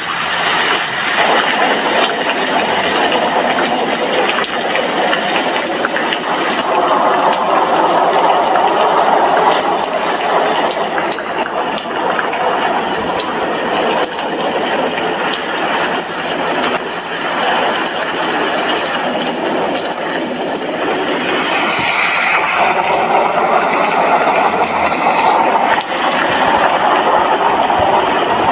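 Heavy rain falling outside an apartment window: a loud, steady hiss, a little brighter for a few seconds about three-quarters of the way through.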